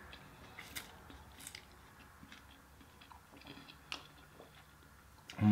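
Close-miked chewing of food, with a few soft, sharp clicks of biting scattered through.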